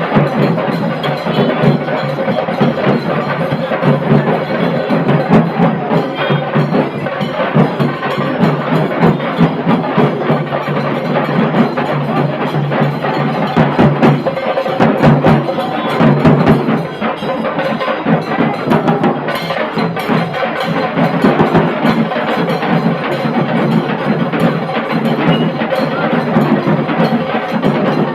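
Dhol tasha drum band playing loud, rapid, unbroken stick beats on tasha drums, backed by dhol.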